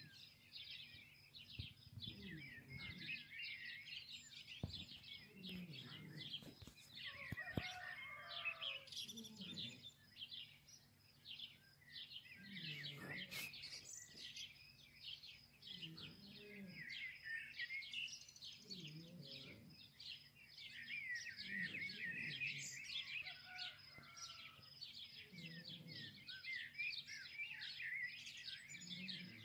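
Many birds chirping densely and continuously, with a lower call returning about every three seconds.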